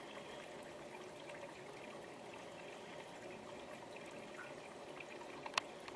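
Faint, steady background noise with a single sharp click about five and a half seconds in.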